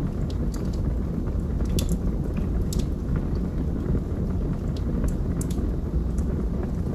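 Log fire burning in a fireplace: a steady low rumble of flames with irregular sharp crackles and pops from the burning logs.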